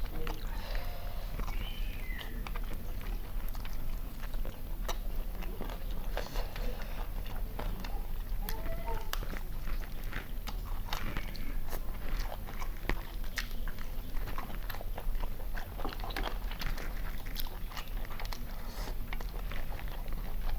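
People chewing and biting into country chicken biryani, with many small wet clicks and smacks. A low steady hum runs underneath.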